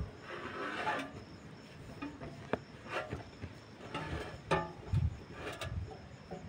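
Irregular clicks and clinks of tools and parts being handled, with a few dull knocks about two-thirds of the way through.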